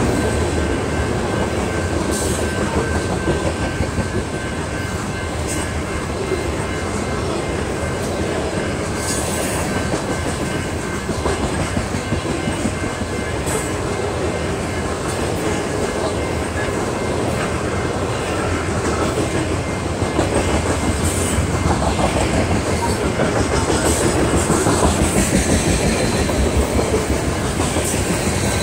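Loaded coal train's hopper cars rolling steadily past: continuous wheel-on-rail noise with scattered sharp clicks from the wheels. It grows somewhat louder in the last third.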